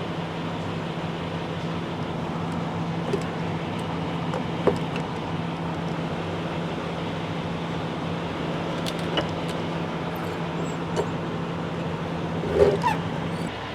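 Semi-truck diesel engine running with a steady low drone, with a few short clicks and squeaks scattered through it, the loudest cluster near the end.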